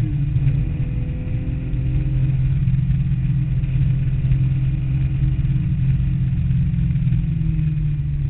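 Porsche 911's air-cooled 3.2 L flat-six heard from inside the cabin, pulling on track: a gear change right at the start, then running at fairly steady revs.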